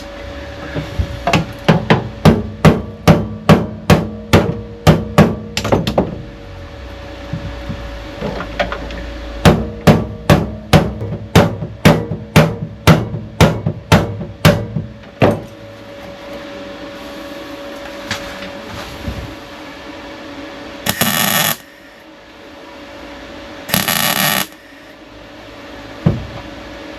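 Hammer blows on the sheet-steel patch panel being knocked into place in the car's boot floor: two runs of quick, even strikes about three a second, each lasting several seconds. Later come two short hissing bursts of noise.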